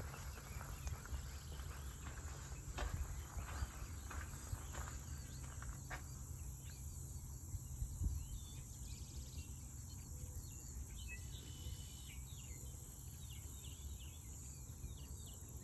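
Steady high-pitched insect drone, with a few footsteps in the first six seconds. From about seven seconds in, a bird calls in a run of short, quick chirps.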